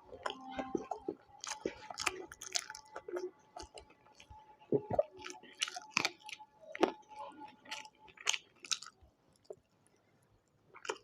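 Close-miked chewing and biting of food: irregular crunchy, wet mouth sounds that thin out and stop near the end.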